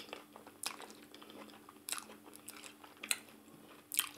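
Close-miked eating: chewing and biting meat in ogbono soup, with several sharp wet clicks and smacks, the loudest near the end. A faint steady hum runs underneath.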